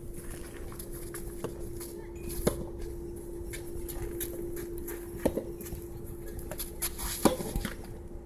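Soft tennis rubber balls struck by rackets in a practice rally: three sharp pocks about two and a half seconds apart, with fainter hits between, over wind rumbling on the microphone. A steady hum runs under it and stops near the last pock.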